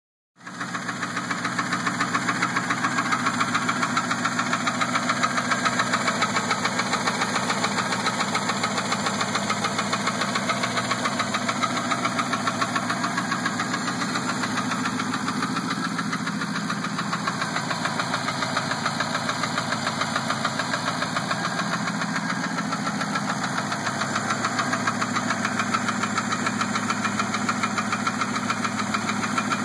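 Engine running at idle with a rapid, steady ticking.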